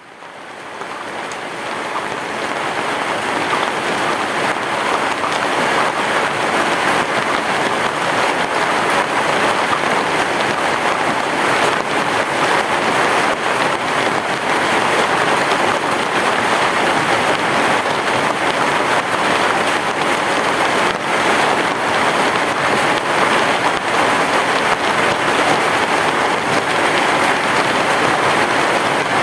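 Heavy rain falling steadily on a roof, a dense even hiss with scattered drop ticks, fading in over the first few seconds. No thunder is heard.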